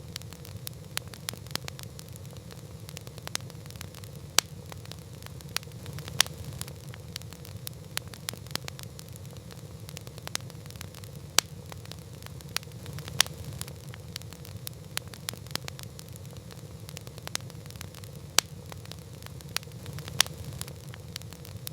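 Wood campfire burning: a steady low rumble of flame with constant irregular crackling and a few sharper pops every couple of seconds.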